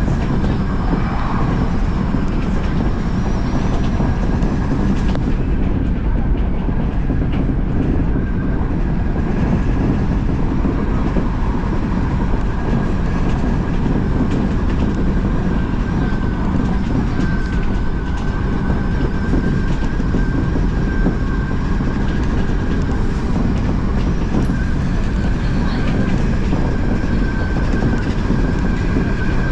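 Odakyu Line electric commuter train running at a steady speed, heard from on board: a constant rumble of wheels on the rails with scattered faint clicks over rail joints and a thin steady whine.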